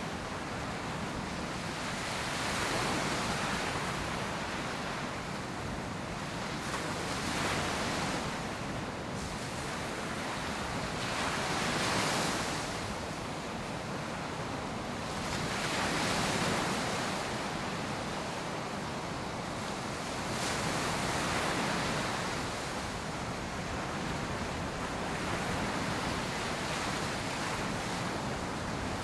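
Ocean surf breaking on a sandy beach, each wave swelling and washing in about every four to five seconds over a steady hiss of water.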